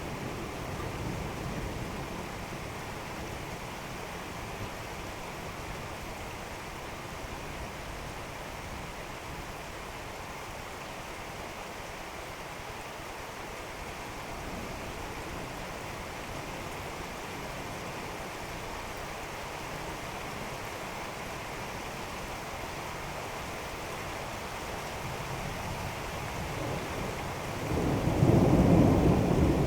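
Steady rain during a thunderstorm, with rolling thunder that fades away early on. Near the end a loud new peal of thunder rumbles in.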